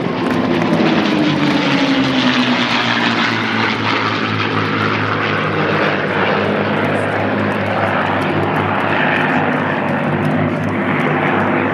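Piston radial engines of a Douglas DC-3/C-47 Dakota running with propellers turning, a steady loud drone. A tone sinks in pitch over the first few seconds.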